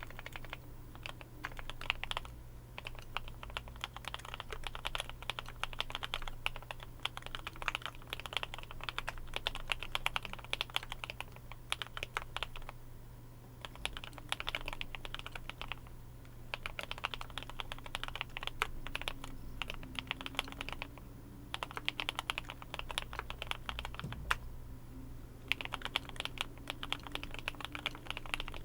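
Typing on a Glorious GMMK Pro mechanical keyboard fitted with Kailh Cream linear switches, lubed with Krytox 205G2 and dampened with EVA foam. The keys clack in fast, continuous runs, broken by two brief pauses.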